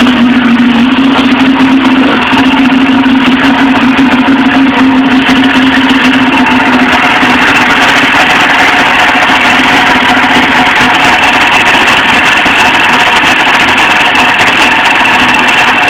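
Polaris XC 600 snowmobile's two-stroke twin engine running steadily just after catching on a recoil-started cold start, on half choke.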